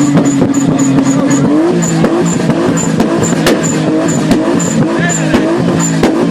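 Nissan Skyline R33's turbocharged engine held at revs, with sharp crackling pops from the exhaust: backfires. The engine note steps up about a second and a half in and then rises and falls as the throttle is worked.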